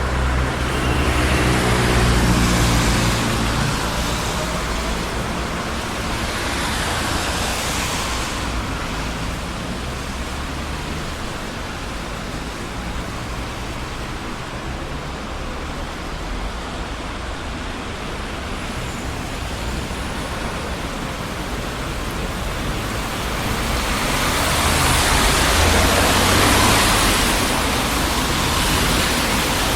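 Steady road traffic on a busy city street: tyre and engine noise, with vehicles passing more loudly near the start and again near the end.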